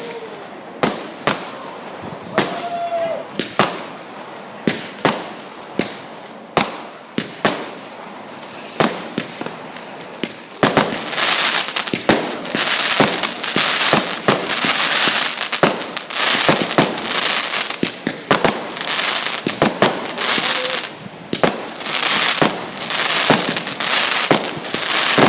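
Fireworks display: a quick run of sharp bangs from bursting shells, then from about ten seconds in a dense crackling that fills the gaps between the bangs and comes and goes in waves.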